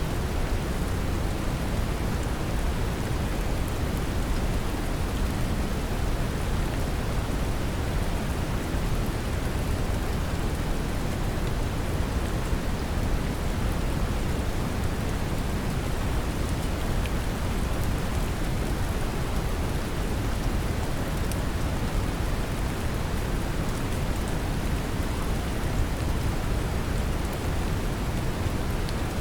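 Steady brown noise, heaviest in the deep low end, mixed with a gentle, even rain hiss and faint scattered drop ticks.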